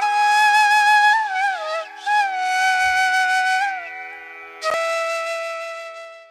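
Background flute music: a slow melody of long held notes with slides between them, in three phrases, the last fading out near the end.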